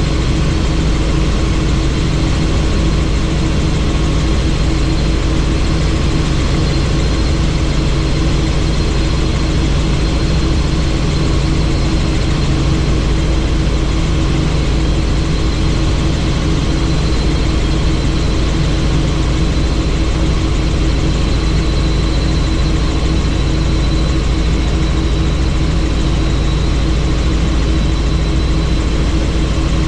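Helicopter in flight heard from on board: a steady, unchanging drone of rotor and engine.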